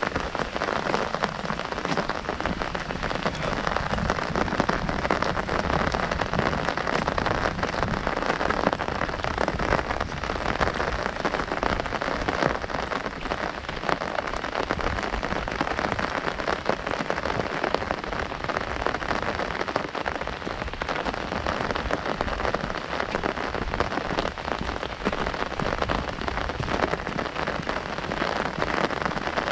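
Heavy rain drumming on an umbrella overhead, a dense, steady patter of drops.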